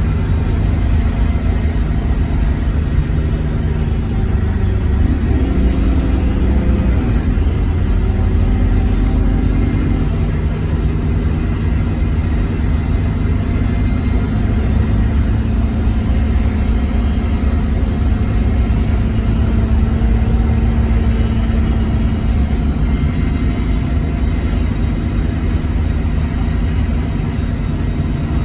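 Scania K230UB city bus's diesel engine running under way, with a constant low rumble. Its pitch rises and falls a few seconds in as the bus changes speed, then holds as a steady drone.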